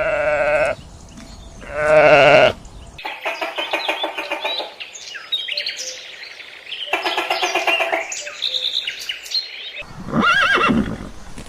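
Sheep bleating twice, long wavering calls. Then comes a stretch of higher, rapidly pulsed chirping calls from other animals, and one rising-and-falling call near the end.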